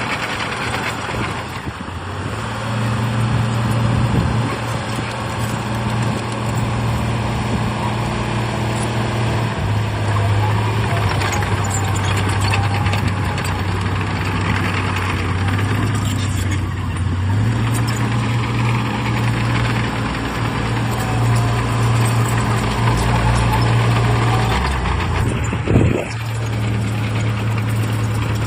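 Heavy diesel engine of earthmoving machinery running steadily, its pitch stepping up and down several times as the load changes. A brief sharp hiss-like burst comes near the end.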